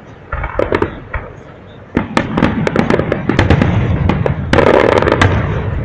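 Aerial fireworks shells bursting: a few separate bangs in the first second, then a dense run of crackling reports from about two seconds in, loudest shortly before the end.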